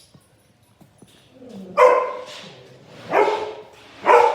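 Labrador retriever puppies barking: three loud, high-pitched barks about a second apart, with softer yips between.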